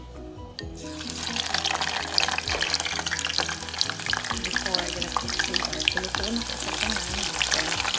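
Hot oil crackling and sizzling as pieces of food deep-fry in a saucepan, starting abruptly about a second in.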